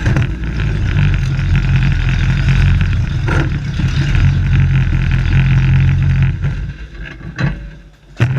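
A race truck's engine running steadily and loud, then dropping away about six and a half seconds in. Two short sharp knocks follow near the end.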